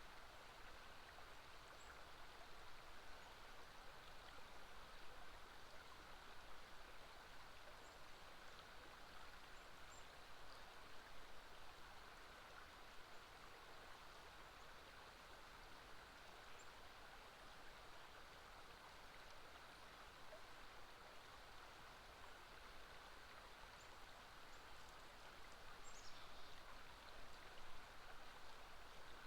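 Faint, steady rush of flowing river water, with a few brief, faint high bird chirps here and there.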